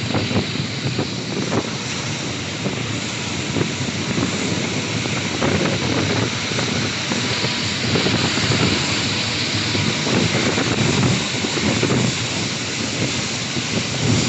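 Wind buffeting the microphone over a steady rushing noise, growing a little stronger in the second half.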